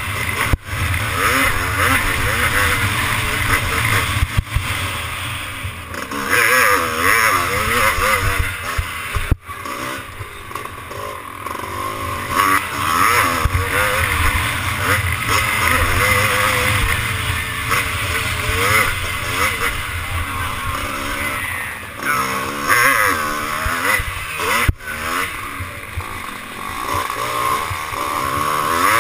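Classic twinshock motocross bike's engine racing, its pitch rising and falling again and again as the throttle is opened and shut.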